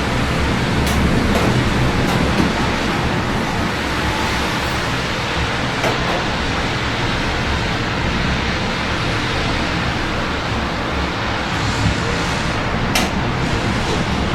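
Steady rain with the low hum of city traffic beneath it, and a few sharp ticks scattered through.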